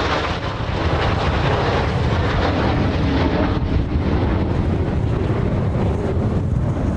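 Blue Impulse Kawasaki T-4 jet trainers flying overhead: a steady jet engine noise with no change in pitch, mixed with strong wind buffeting the microphone.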